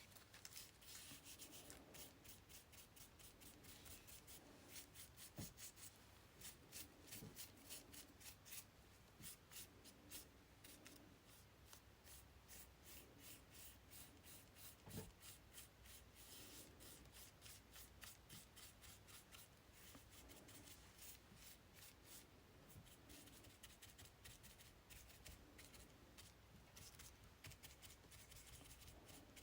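Faint, quick rubbing strokes on paper, many in a row, as paper is worked by hand on a journal page.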